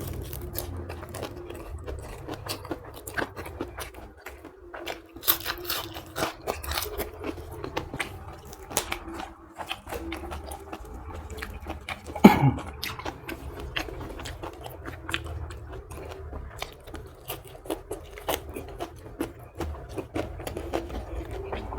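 A person chewing and biting crunchy food close to the microphone, with many short crisp crunches throughout and one louder sharp sound about twelve seconds in.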